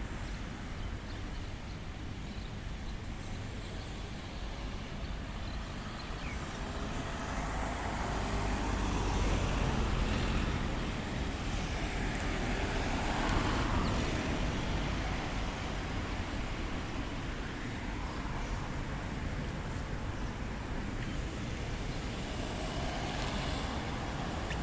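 Road traffic noise with vehicles passing, the loudest pass swelling and fading about ten to fourteen seconds in.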